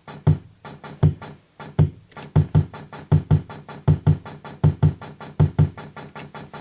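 Sound Auto Drummer preset drum machine playing a rhythm pattern: a deep, thudding bass drum over rapid, even hi-hat ticks. There is no snare or clap, as those voices are faulty on this unit.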